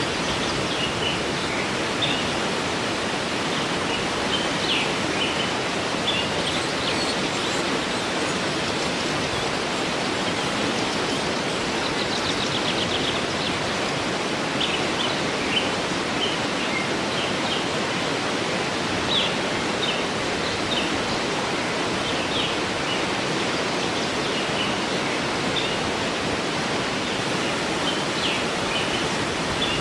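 Waterfall rushing steadily, with small birds chirping in short calls scattered over it and a quick trill about twelve seconds in.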